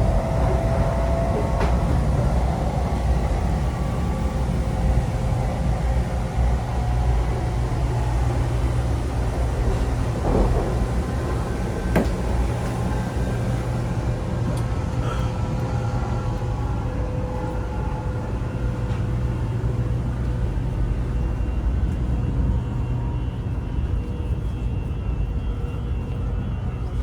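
Taiwan High Speed Rail bullet train running, a steady low rumble with faint steady tones over it. There is a short click about two seconds in and a sharper one about twelve seconds in, and the rushing hiss fades somewhat in the second half.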